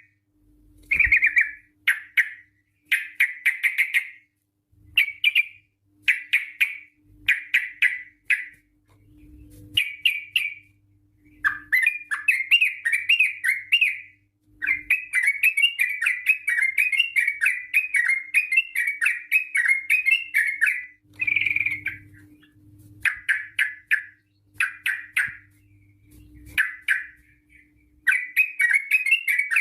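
Yellow-vented bulbul (trucukan) singing bubbly, chattering phrases, some short and separated by brief pauses, others run together into long unbroken strings lasting several seconds, the 'ropel panjang' style of a bird in full song.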